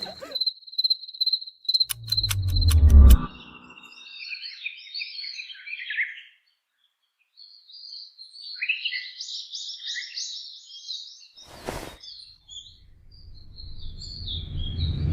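Birds chirping in short, high phrases. It begins with a pulsing, cricket-like high tone and a few sharp clicks over a low thump, with a brief burst of noise later and a low rumble swelling near the end.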